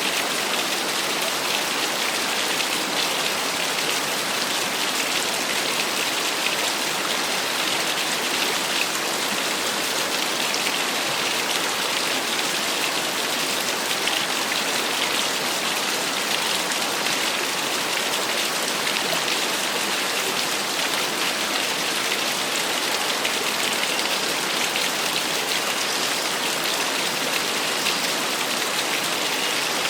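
Small waterfall splashing, a steady even rush of falling water with a bright, spattering hiss.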